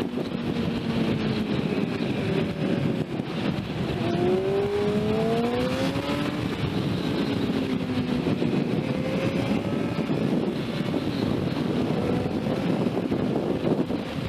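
Sport motorcycle engine running under way, its pitch climbing between about four and six seconds as it revs up, over heavy wind rush on the microphone.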